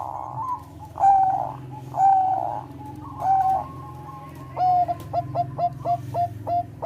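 Zebra dove of the Thai 'perkutut bangkok' type cooing: a few drawn-out coos about a second apart, then a fast run of short clipped coos, about four a second, near the end.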